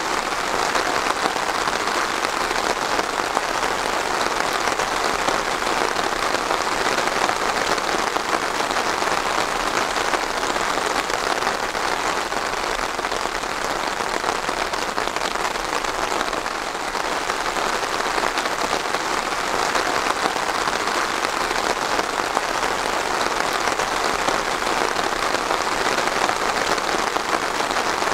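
Steady rain falling, an even, dense patter of drops hitting a surface.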